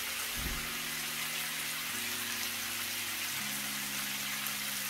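Curry chicken sizzling as it fries in a large pan, a steady hiss, with a short low thump about half a second in as bell pepper strips go into the pan. Low steady tones sit underneath and change pitch twice.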